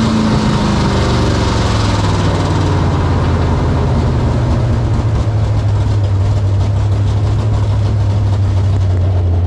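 Big-block Ford V8 of a drag-racing 1964 Fairlane rumbling steadily at low revs, off the throttle, as the car rolls down the track. A rush of wind and road noise fades over the first few seconds as the car slows.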